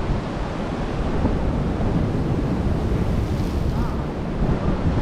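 Ocean surf surging and breaking against the rocks, with wind rumbling on the microphone.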